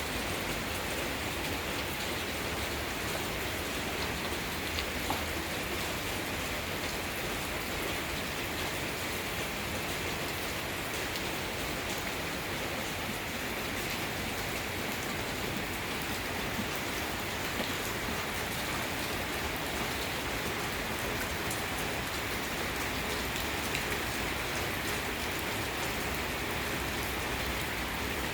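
Heavy rain falling steadily, a dense even hiss of rain on surfaces with a few sharper drop ticks here and there.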